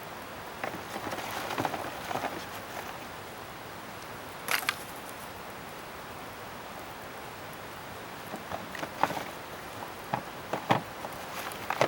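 Scrap-wood bonfire crackling over a steady hiss, with scattered sharp pops, the loudest about midway and near the end.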